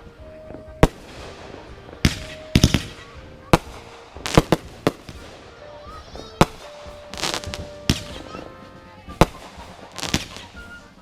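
Fireworks going off: about a dozen sharp bangs at irregular intervals, several coming in quick clusters, over a background of crackling.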